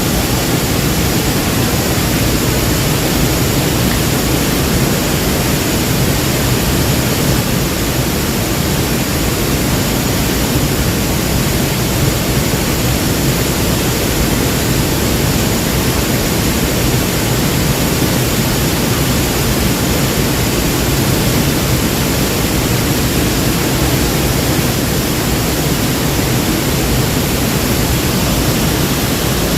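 A waterfall's falling water, a loud, steady rushing that does not change.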